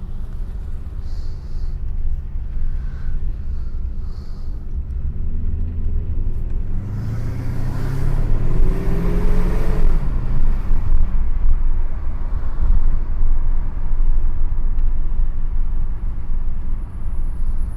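Mercedes-Benz 500 SE's 5.0-litre V8, muffler deleted, running while driving: a low rumble whose pitch rises for several seconds as the car accelerates, about halfway through, then holds louder and steady.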